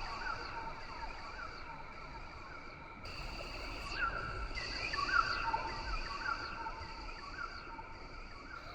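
Rainforest ambience: a steady high insect drone that fades and returns, with many short, quick chirping calls from animals scattered throughout over a low background rumble.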